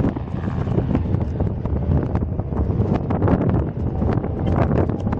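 Wind buffeting a camera microphone: a dense low rumble broken by irregular crackles.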